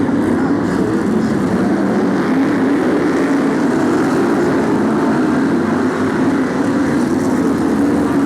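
A pack of BriSCA F1 stock cars racing together, their V8 engines blending into one loud, continuous roar whose pitch wavers as the cars lap the track.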